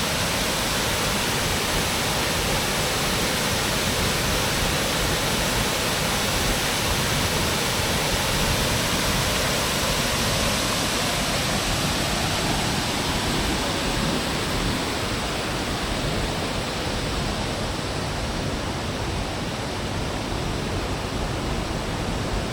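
Waterfall: a steady, even rush of falling water, easing slightly in the second half.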